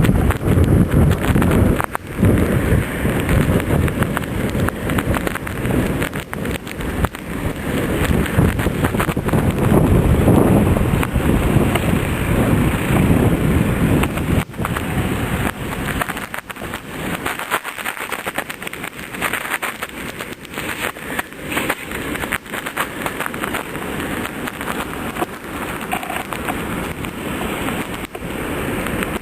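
Blizzard wind buffeting the microphone: a loud, gusting rumble that flickers constantly. It lightens somewhat in the low end after about halfway.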